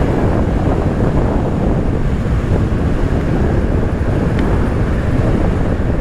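Steady wind rush over a riding motorcyclist's helmet microphone, with the running noise of the Kawasaki Z650 motorcycle mixed underneath.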